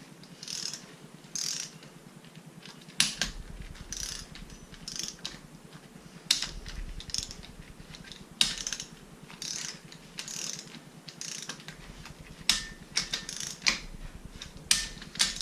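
Ratchet wrench clicking in repeated short strokes, snugging the engine's bolts down a little at a time, with a few sharp metal clinks in between.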